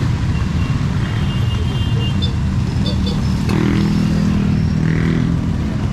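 Motor vehicle engine running close by on a street, with a low steady hum that grows louder about three and a half seconds in as it nears.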